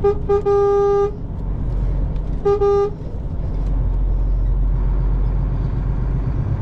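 Truck horn sounding three single-pitched blasts: a short toot, a longer one right after it, then another about two and a half seconds in. The truck's diesel engine runs underneath, picking up a little near the middle.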